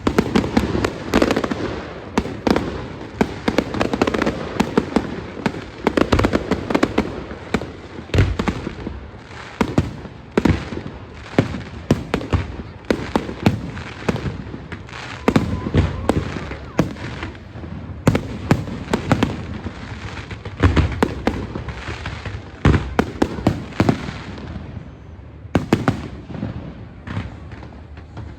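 Aerial fireworks bursting in rapid, dense volleys of bangs and crackles. The bangs thin out briefly near the end, then another volley starts.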